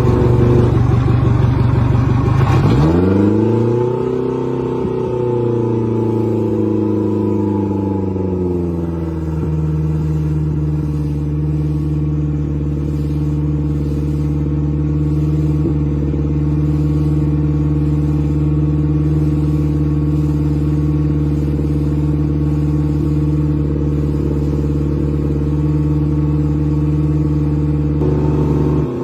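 Boat engine running loud, with a rough, noisy stretch at first, then its pitch rising and sliding back down over several seconds before settling, about nine seconds in, into a steady lower drone.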